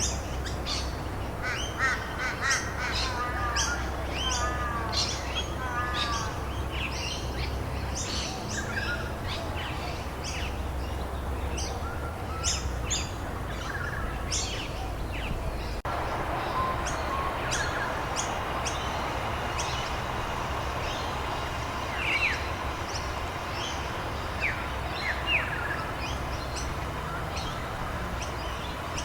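Many birds chirping and calling, with repeated short whistled phrases in the first few seconds, over a steady background hiss. The background changes abruptly a little past halfway, like a splice between two recordings.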